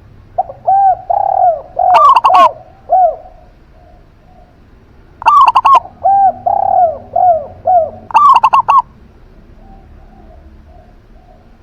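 Zebra dove and spotted dove cooing in two bouts. Each bout is a run of short, soft arched coos and ends in a few loud, rapid, rattling notes. The first bout is about half a second to three seconds in, the second about five to nine seconds in.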